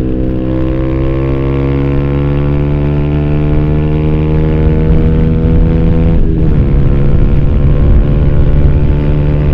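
Yamaha YZF-R125's single-cylinder four-stroke engine, through an Arrow slip-on exhaust with its dB-killer fitted, pulling steadily up through the revs. About six seconds in the note breaks briefly and drops in pitch at an upshift, then pulls on in the next gear. Heard from a phone carried in the rider's backpack.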